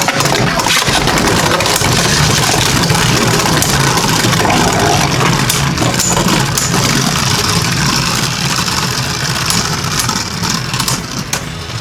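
Two Beyblade spinning tops whirring and grinding in a plastic Rail Rush stadium, with frequent sharp clacks as they collide and strike the rails. The whir thins out near the end as the tops slow.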